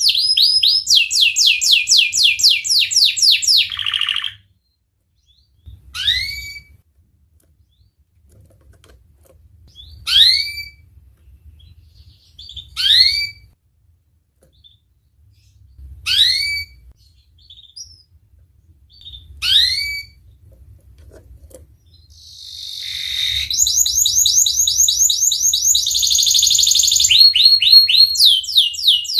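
Domestic canary singing. It opens with a fast rolling trill of rapidly repeated notes, then gives five single sharp chirps about three seconds apart, and about two-thirds of the way through it breaks back into long rolling trills.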